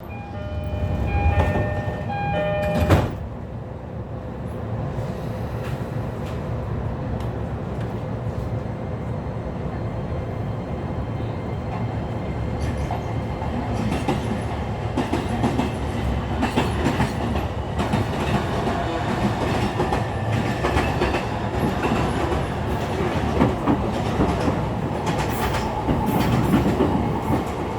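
An E231 series electric train nicknamed the "falling inverter", recorded on board as it pulls away: the inverter motor whine rises in pitch under the steady running noise, with wheels clacking over rail joints. It opens with a few seconds of electronic chime tones ending in a sharp thump about three seconds in.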